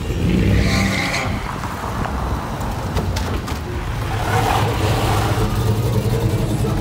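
Car and truck engines running and revving as vehicles drive past. A loud hissing burst comes about a second in, and a second swell follows around four seconds in.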